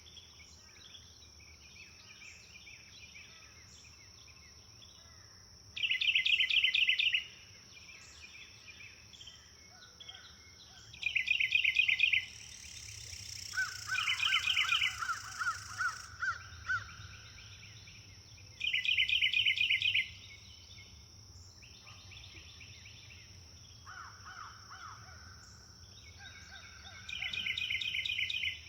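Wild birds singing in the open. One bird repeats a short, fast trill four times, each lasting about a second and a half. Other birds add softer phrases and a harsher call around the middle, over a steady high insect drone.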